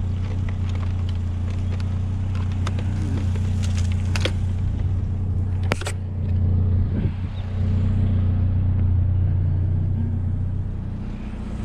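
A pickup truck's engine running steadily with a low hum, which swells a little in the second half. A few sharp clicks or knocks come through around the middle.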